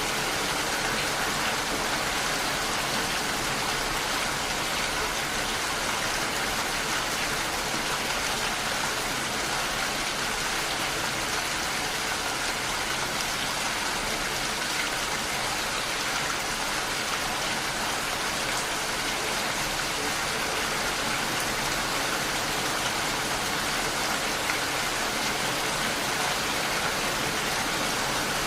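Steady rainfall: an even, unbroken hiss of rain pattering on surfaces.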